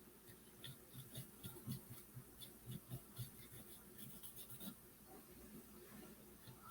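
Faint, irregular scratchy dabs and strokes of a paintbrush working paint onto a wooden birdhouse.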